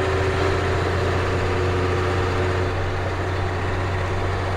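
Ford CF7000's 6.6-litre Brazil diesel engine running steadily, heard from inside the cab, with a low even drone and a faint steady whine that fades out after about three seconds.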